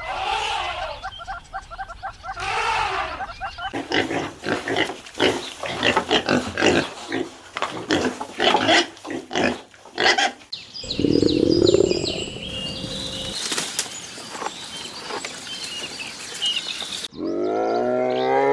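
A series of different wild animal calls, cut one after another: pitched calls first, then a long run of rapid grunts, a short low rumble, high chirps, and a rising pitched call near the end.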